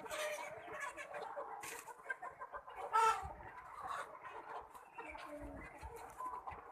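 A flock of chickens clucking and calling continuously, with one louder call about three seconds in.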